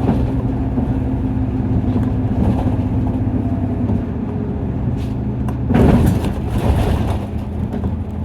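Diesel engine of a Nissan Diesel KC-UA460LSN city bus running steadily, heard from inside the bus. About six seconds in there is a louder burst of noise lasting about a second.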